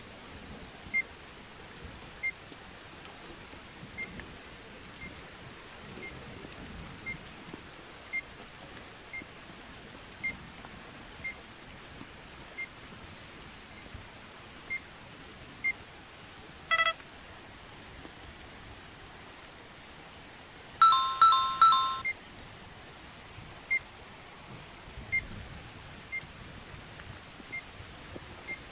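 Trimble R10 GNSS receiver giving short high electronic beeps about once a second, the signal that it holds an RTK FIX on the VRS network. The beeps stop for several seconds in the middle, where a single different beep and then a louder three-note electronic chime sound.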